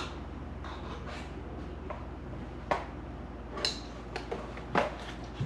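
A spoon tapping and knocking against a mixing bowl, about half a dozen short, separate taps in the second half, over a faint steady low hum.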